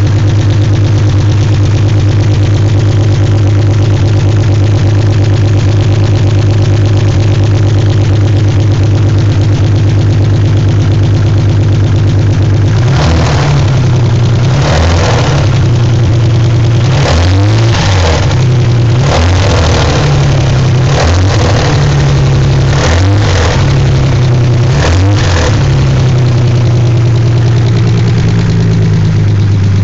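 Nissan 300ZX's VG30DETT twin-turbo V6 idling steadily, then revved up and let fall several times in quick blips for about ten seconds, then settling back to idle. The owner suspects a bad lifter in the passenger-side bank.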